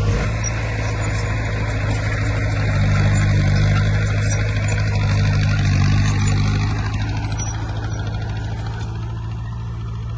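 Heavy diesel engine of earthmoving machinery running steadily under load, its low drone swelling a little a few times and easing off near the end.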